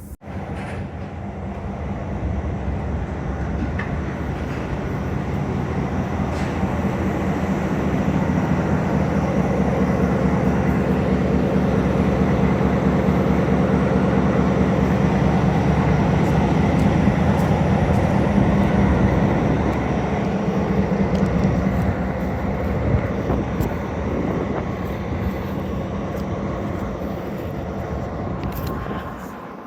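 Train running on the rails, a continuous low, heavy rumble. The noise builds over the first several seconds, holds steady, and eases off slightly near the end.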